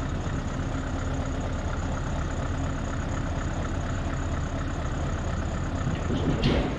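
Scania V8 diesel truck engine idling steadily with a low rumble. A brief louder sound breaks in about six and a half seconds in.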